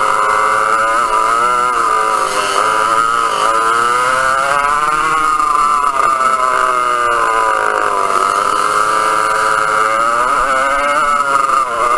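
Vintage dual rear-engine racing kart's two-stroke engines running at high revs, the pitch rising and falling again and again as the kart accelerates and backs off.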